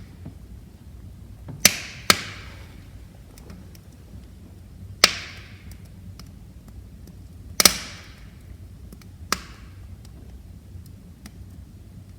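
Wood fire in a fireplace crackling: five sharp pops from the burning logs, two of them close together, with faint small ticks in between, over a low steady burning noise.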